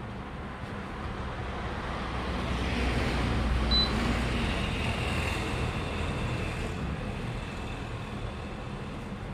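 A road vehicle passing by: a rumbling road noise that swells to its loudest about three to four seconds in and then slowly fades.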